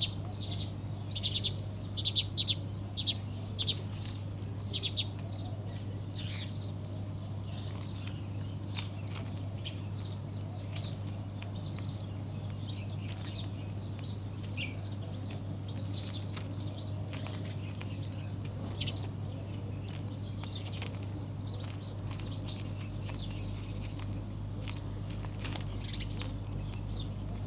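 Many small birds chirping in quick short calls, busiest and loudest in the first five seconds, then thinner and fainter, over a steady low hum.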